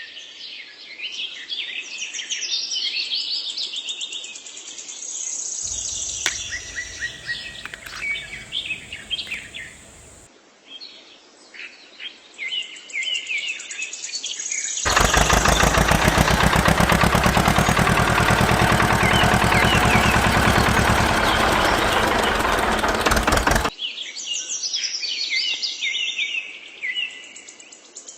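Songbirds chirping and singing in short rapid phrases. From about halfway in, a loud, fast, even rattling noise covers everything for around nine seconds, then stops suddenly and the birdsong returns.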